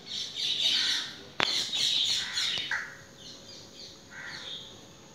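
Birds calling over and over, most densely in the first three seconds and thinning out after that. A single sharp click comes about one and a half seconds in.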